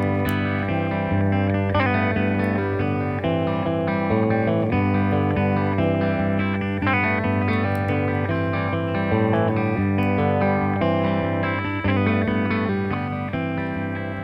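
Instrumental guitar music in a slow desert-blues style: plucked guitar lines over a steady low bass, with no singing.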